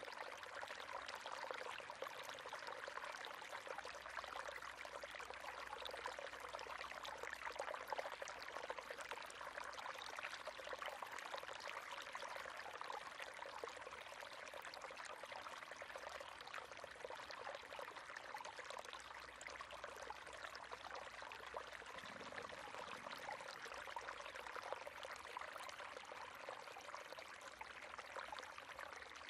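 River water running over stones in a steady, even rush.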